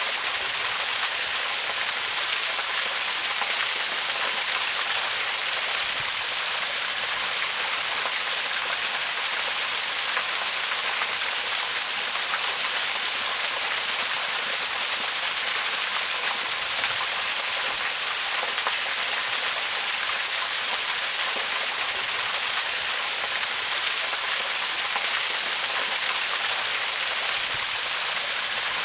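Waterfall: a steady rush of falling water, an even hiss, bright and spattering, with little low rumble and no change throughout.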